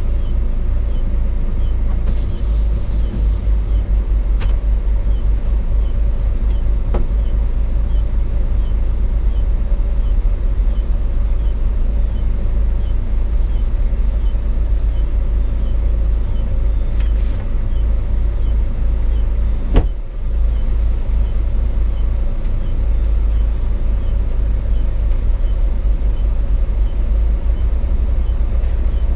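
Hino 500 FM 260 JD truck's six-cylinder diesel engine running steadily under way, heard inside the cab as a low rumble. A sharp knock comes about twenty seconds in.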